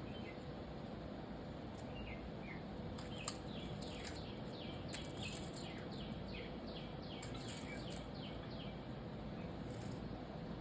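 A small bird calling a quick series of short, downward-sliding chirps, about two or three a second, over steady outdoor background noise, with one sharp tick about three seconds in.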